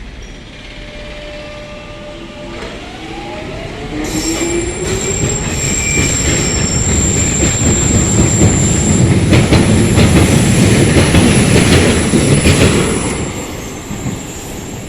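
Electric passenger train passing close by. Its motor whine rises in pitch as it gathers speed, then it runs past with a loud wheel rumble and a steady high-pitched wheel squeal, and it fades away near the end.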